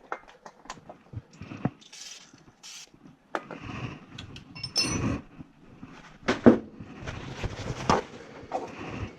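Irregular clicks, knocks and rattles of tools and parts being handled during furnace wiring work, with the loudest knocks about six and a half and eight seconds in.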